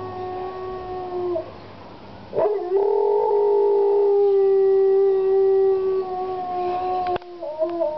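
A dog howling in long, steady held notes. One howl trails off about a second and a half in. A louder, long howl starts about two and a half seconds in and ends about seven seconds in. A short, wavering howl follows.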